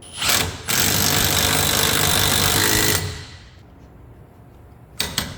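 Impact wrench running down the front axle nut on a 2007 Chevy Silverado 1500 hub: a short first burst, then a steady hammering run of about two and a half seconds that stops abruptly. A couple of sharp clicks come near the end.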